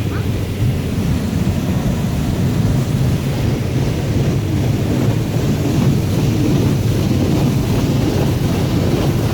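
High-pressure rinse jets of a touchless automatic car wash hitting the van's body, heard from inside the cabin as a steady, loud, deep rush of water.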